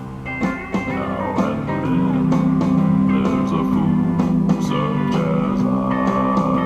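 Instrumental intro of a karaoke backing track: guitars playing over a steady beat, with sliding notes.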